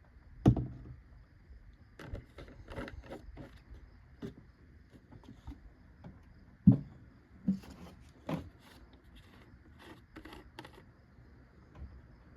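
Several hollow knocks and light clatter from a plastic oil jug and funnel being handled at the engine during an oil fill. The loudest knock comes about half a second in, with more knocks near the middle.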